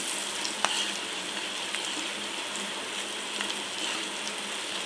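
Onion, garlic, green chillies and ground spices sizzling steadily in hot oil in a nonstick wok while a spoon stirs them, with a few light clicks of the spoon against the pan.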